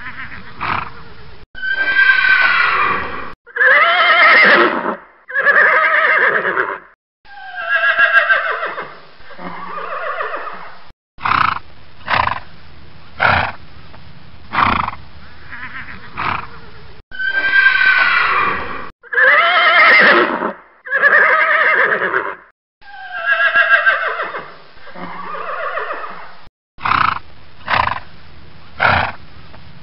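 Horses neighing: several long, quavering whinnies one after another, followed by a string of short sharp knocks about a second apart, the same sequence then playing again.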